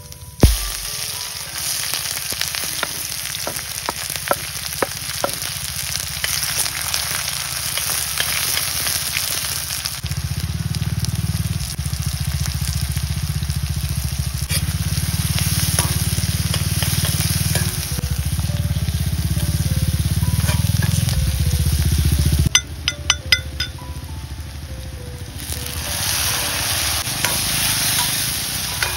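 Hot oil sizzling in a stainless steel kadai as whole spices and chopped onions fry, with a metal ladle clicking and scraping against the pan during stirring, most clearly a little past two-thirds through. A low rumble sits under the middle part and stops about two-thirds through.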